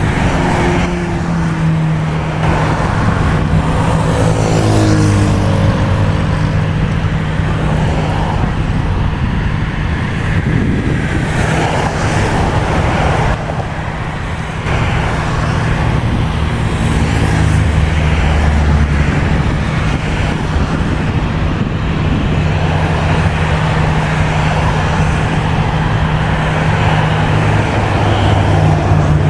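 Steady engine noise with passing traffic: a low hum runs throughout, and in the first few seconds a passing engine's pitch slides downward.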